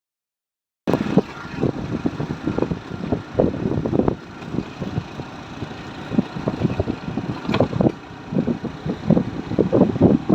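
Wind buffeting the microphone in irregular low gusts over a steady hiss of rushing waterfall water, starting abruptly about a second in.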